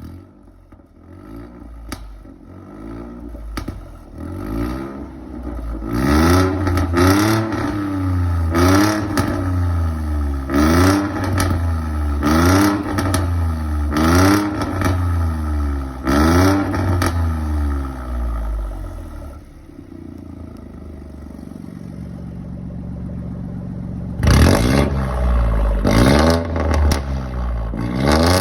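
BMW 118i engine revved through a straight-piped exhaust fitted with a remote-controlled valve: a string of quick blips, about one a second, each rising and falling, then a quieter spell of steady running, then more revving near the end.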